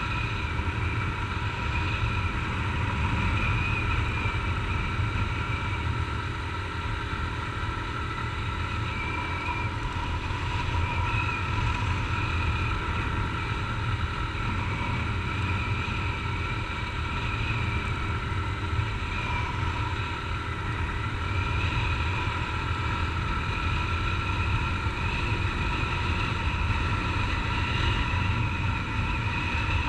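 Honda CG 150 Titan's single-cylinder four-stroke engine running steadily while the motorcycle cruises at an even speed, with wind rush over the helmet-mounted camera.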